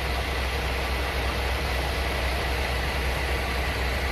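A truck's engine running steadily: an unbroken low drone with an even rush of noise over it.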